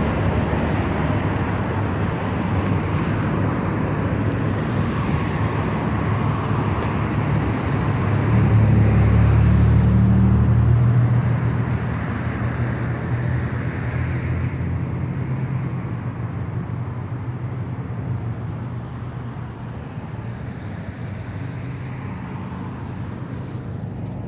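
Road traffic: a motor vehicle's engine running, swelling to its loudest about a third of the way in and then slowly fading away.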